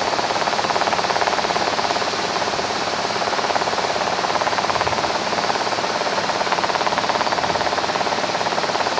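Cabin noise of a Robinson R22 helicopter in cruise flight: a steady rush of rotor, engine and airflow with a fast, even pulsing running through it.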